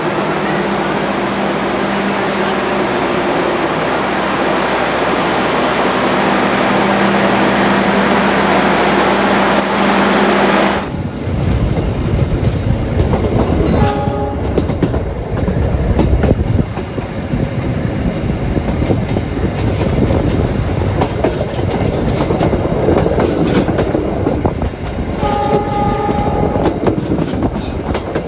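Diesel train: a loud, steady engine drone for about the first ten seconds. After an abrupt change comes the rumble and clatter of a train running on the rails, with a short horn blast a few seconds later and another near the end.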